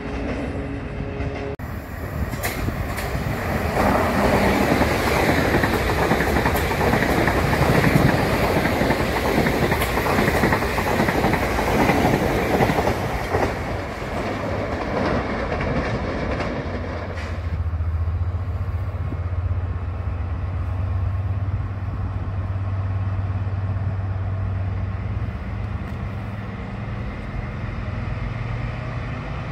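A passing train's rumble and wheel clatter, loud for about twelve seconds. After a cut about seventeen seconds in, a Class 70 diesel locomotive moves slowly with a freight train, its engine a steady low drone.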